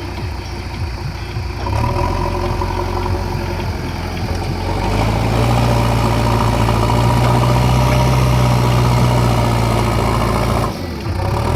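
JCB 3DX backhoe loader's diesel engine running, picking up speed about two seconds in and again about five seconds in as the loader works, then holding there. Its sound drops away briefly near the end and comes back.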